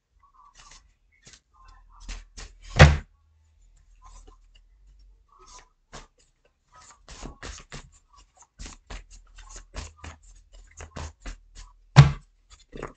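Tarot cards being shuffled and handled: a scattered run of light clicks and flicks, with two louder thumps about three seconds in and near the end.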